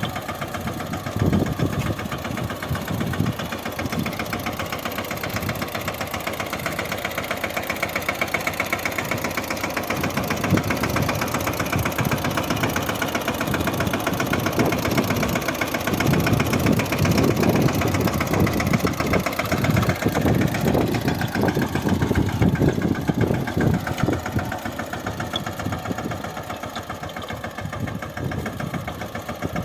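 Mahindra Yuvraj 15 hp mini tractor's single-cylinder diesel engine running with a fast, even knocking beat while it pulls a furrow-covering implement. It gets somewhat louder in the middle and later part.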